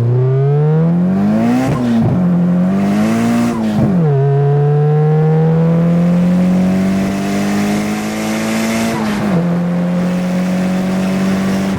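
Turbocharged Nissan SR20DET engine at full throttle, pulling hard through the gears. Its pitch climbs and drops sharply at each of three shifts, about 2, 4 and 9 seconds in. The drive wheels are spinning through the lower gears.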